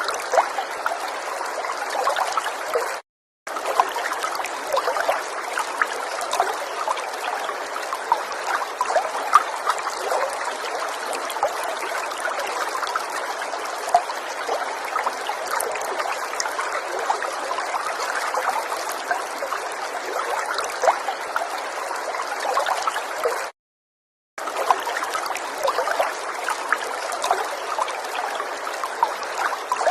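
River water flowing steadily, a dense mix of many small splashes with no low rumble. It cuts out to complete silence twice: for about half a second a few seconds in, and for about a second near the end.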